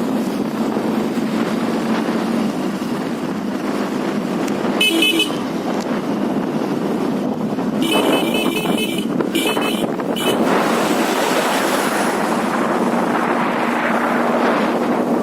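Vehicle horn honking on the road: one short toot about five seconds in, then a run of beeps from about eight to ten seconds, over steady wind and road noise.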